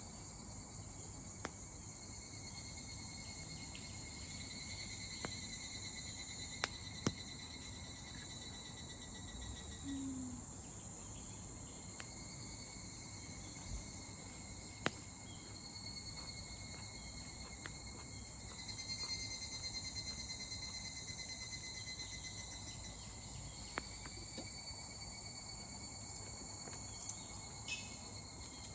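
Chorus of insects, such as crickets, trilling steadily in several high pitches, with a few sharp clicks now and then.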